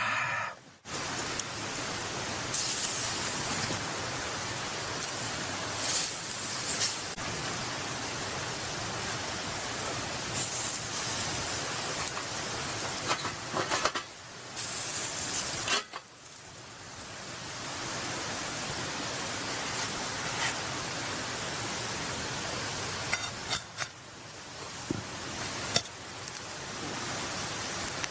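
Wagyu liver sizzling on a grill over charcoal: a steady hiss that swells several times into louder bursts of sizzle, with a few light clicks near the end.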